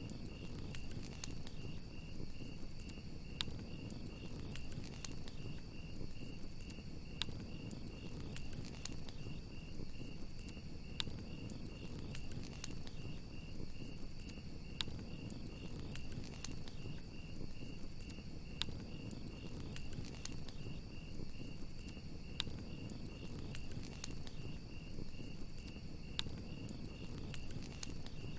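Crackling campfire with scattered sharp pops over a low steady rush of flame, under crickets chirping in a continuous, evenly pulsing high trill.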